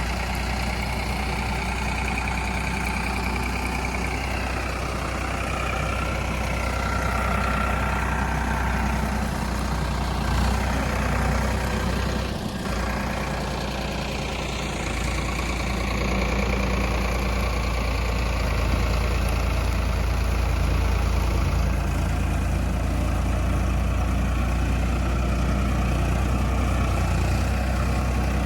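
Diesel tractor engine running steadily with a deep, even hum, getting a little louder about halfway through.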